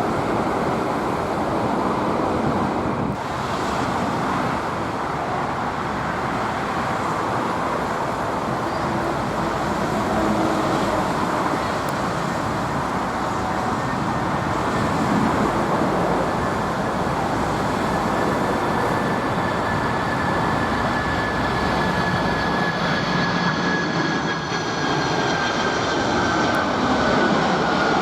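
Four-engine Boeing 747 jet engines running: a steady rush of jet noise, with a whine that slowly falls in pitch over the last ten seconds or so.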